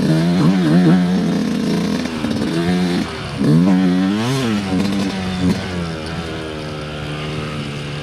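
Dirt bike engine revving up and down through the gears while trail riding, with one sharp rise in pitch about four seconds in, then settling to a steadier, lower pitch.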